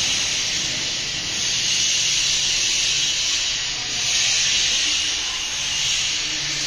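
A steady, loud hiss, strongest in the upper range, that does not let up.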